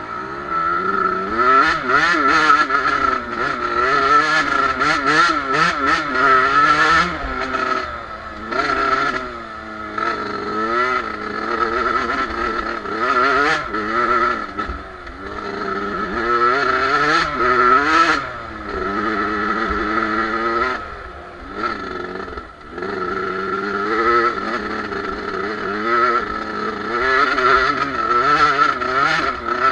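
Two-stroke Suzuki motocross bike engine being ridden hard, revving up and dropping back again and again as the throttle is worked.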